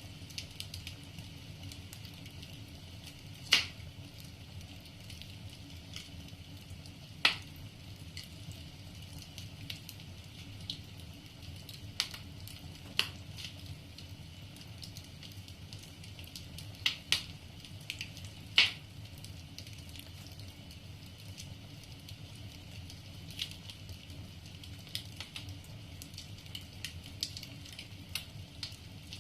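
Wood fire crackling in a fireplace: irregular sharp pops and snaps of burning logs, about seven loud ones and many small ticks between, over a steady low background hum.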